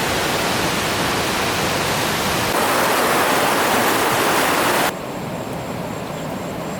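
Waterfall water rushing in a loud, steady roar that changes about two and a half seconds in and turns quieter and thinner about five seconds in.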